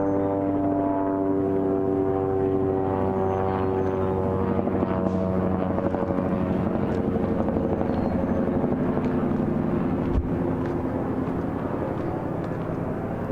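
Aircraft engine droning overhead, its pitch sliding slowly down as it passes.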